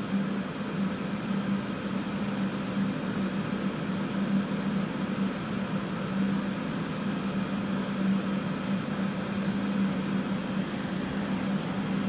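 Steady rushing noise with a low hum from fume-extraction fans and the soldering torch flame, as the flux on a silver pendant is heated until it dries glassy.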